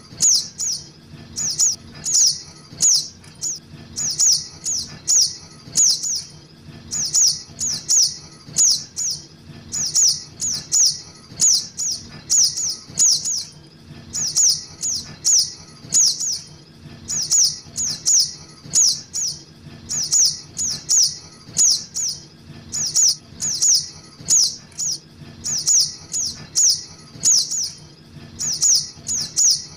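Juvenile little spiderhunter (sogok ontong) calls played as a trapping lure: high, sharp chirps in quick runs of two to four, repeating about once a second without a break.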